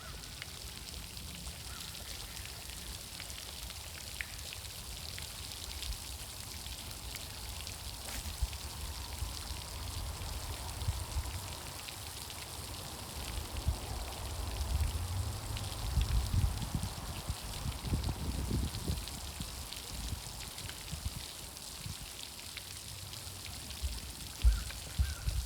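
Steady outdoor hiss like moving water, with low rumbling swells around the middle and a couple of sharp thumps near the end.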